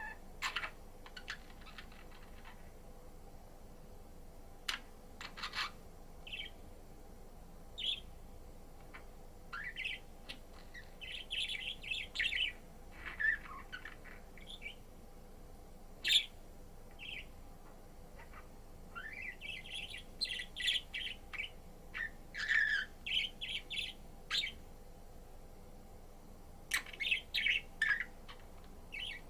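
Budgerigar chirping and warbling in short irregular bursts of quick, varied notes, with a few sharp clicks among them.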